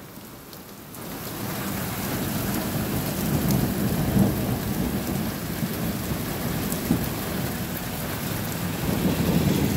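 Heavy rain pouring down: a steady rushing that swells up about a second in and keeps on.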